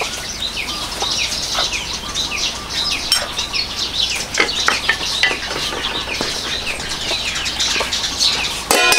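Many birds chirping in quick, falling peeps throughout. Near the end comes a brief clatter as the metal pot lid is lifted.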